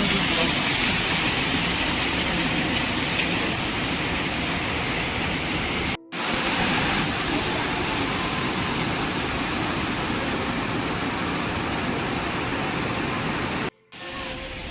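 Waterfall water rushing: a loud, steady hiss that cuts out briefly about six seconds in and again near the end.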